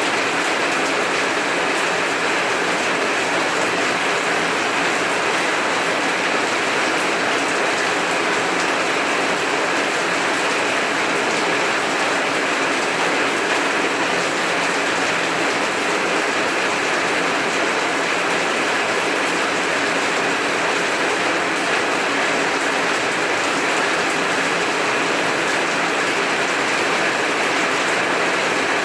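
Heavy rain falling steadily, a dense even hiss with no let-up and no thunder.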